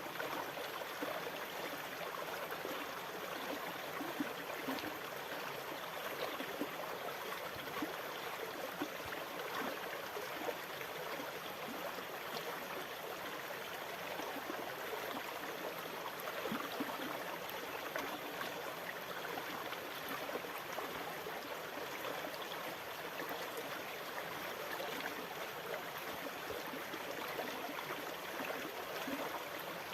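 Steady rush of moving water, full of small splashes, holding an even level with no swell and fall of breaking waves.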